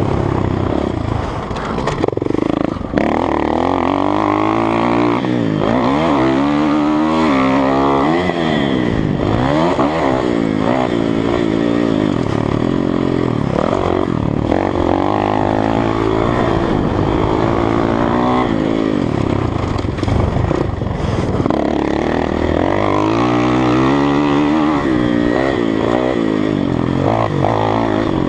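Kawasaki KX450F four-stroke single-cylinder dirt bike engine being ridden hard, its pitch rising and falling again and again every couple of seconds as the throttle opens and closes and it shifts through gears.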